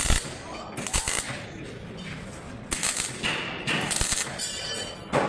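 Body-shop tool noise: several short bursts of hiss with sharp clicks and knocks.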